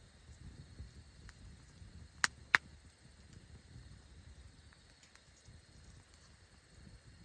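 Campfire burning with a low steady rumble and scattered faint crackles, and two sharp pops in quick succession a little over two seconds in.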